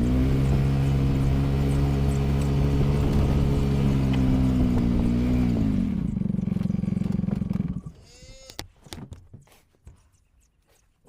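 A farm vehicle's engine revving up and holding a steady higher speed, dropping back to idle, then shutting off about two-thirds of the way through. A brief squeak and a few faint clicks follow.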